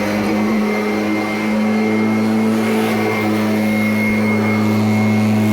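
Kirby Avalir upright vacuum running steadily with its new belt: a constant motor hum with a thin high whine over it. The motor sounds a little tight.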